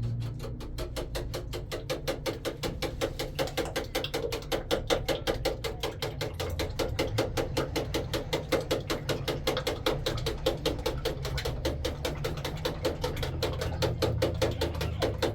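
Rapid, even tapping, about six strokes a second, of a fork beating eggs in a bowl, over a steady low hum.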